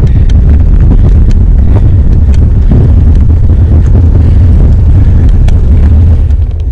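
Wind buffeting the camera's microphone while cycling: a loud, steady low rumble with scattered small clicks.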